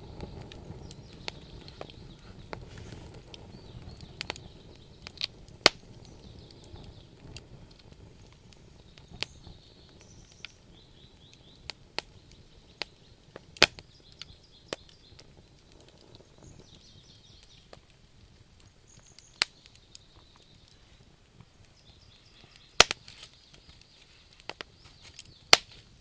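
Wood campfire burning, with irregular sharp crackles and pops, a few of them loud, over a low rumble of flames that fades during the first few seconds.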